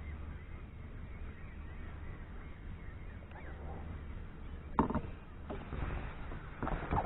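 Several sharp knocks and rattles of fishing gear being handled in a boat, the first about five seconds in and a louder one near the end, over a low steady hum.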